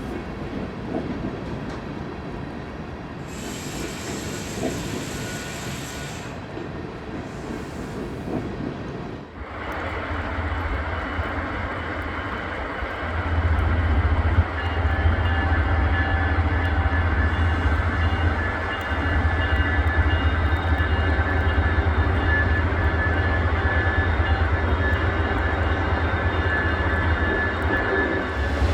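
Train sounds: at first a noisy rumble with a brief hiss about four seconds in. Then, about nine seconds in, a diesel locomotive takes over, running close by with a steady low drone and a high steady whine, and grows louder around thirteen seconds in.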